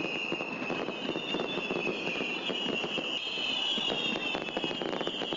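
Fireworks going off in a dense, rapid crackle, with several high whistles that slowly fall in pitch.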